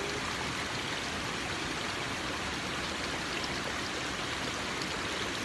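A waterfall's water falling and rushing in a steady, even roar of noise.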